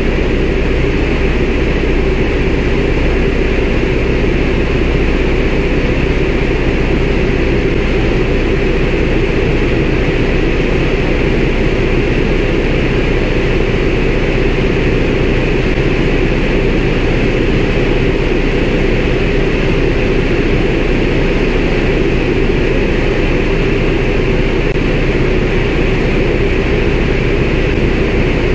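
A CAC Winjeel's Pratt & Whitney R-985 Wasp Junior radial engine and propeller drone steadily in cruise, heard from inside the cockpit.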